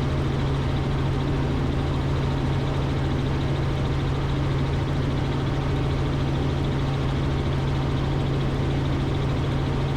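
Robinson R44 Raven II helicopter in steady cruise, heard from inside the cockpit: the constant low drone of the main rotor and its six-cylinder Lycoming piston engine, with a steady hiss of airflow.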